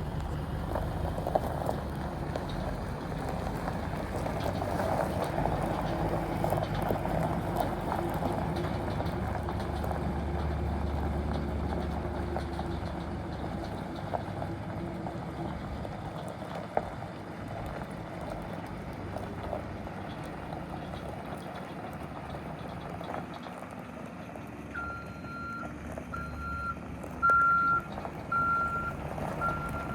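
2006 GMC Topkick medium-duty truck engine running steadily. Near the end a reversing alarm starts, beeping about once a second, louder than the engine.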